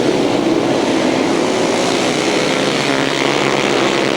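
A pack of 500cc solo grasstrack motorcycles racing, their engines making a steady, loud massed drone at high revs.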